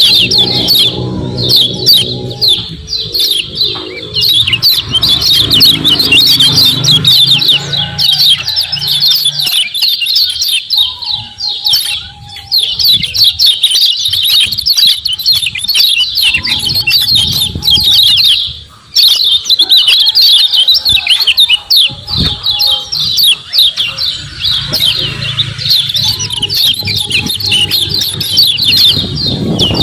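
Kecial kuning (yellow white-eye) giving rapid, nonstop high 'ciak ciak' chirping, a dense run of quick notes that breaks off only briefly once. This is the excited, fast-calling song used as a lure to set other kecial kuning calling.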